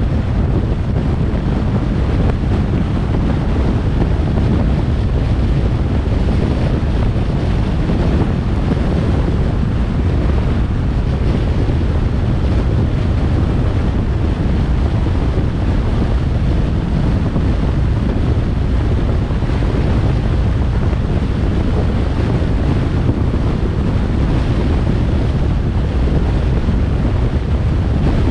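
Steady wind buffeting the microphone of a moving car, a constant low rumble with a hiss above it and no change throughout.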